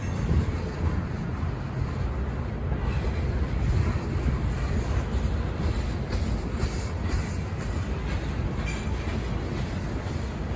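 Freight train rolling past, a steady low rumble of cars on the rails, with faint clicks from the wheels partway through.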